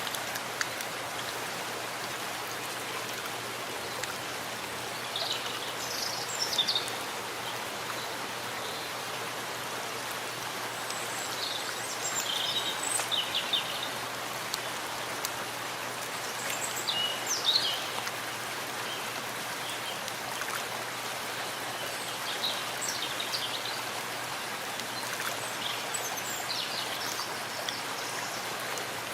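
Steady rain falling, an even hiss of drops, with a few short high chirps now and then.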